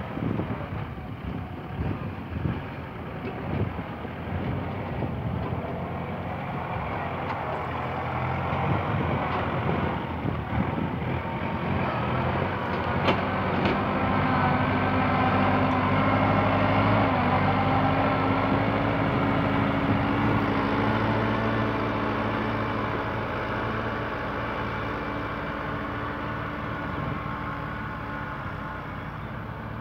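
Kubota tractor's diesel engine running steadily while plowing, getting louder in the middle and then fading away near the end.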